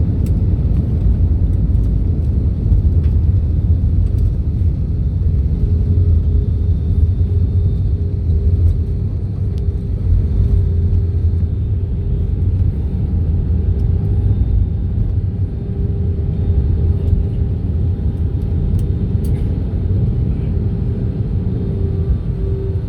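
Steady low rumble of an airliner heard inside the cabin as it rolls on the ground after landing, with a faint hum that comes and goes.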